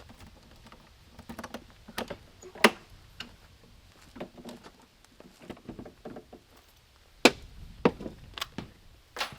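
Irregular clicks, taps and knocks from hands working on wooden camper cabinets, with two sharper knocks, one under a third of the way in and one about three-quarters through.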